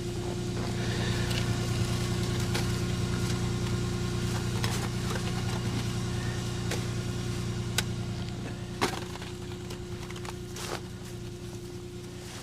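A vehicle engine idling with a steady low hum, growing a little fainter toward the end, while a few sharp knocks of gear being handled come through in the middle.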